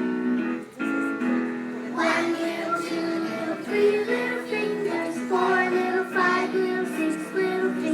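A song with steady held instrumental notes, joined about two seconds in by children and a woman singing.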